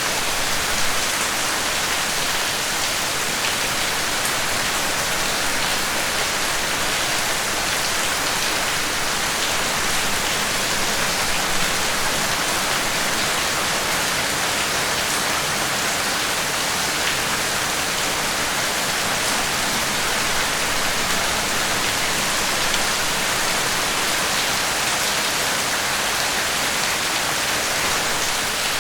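Steady rain falling, an even hiss of many drops with faint scattered patters of individual drops.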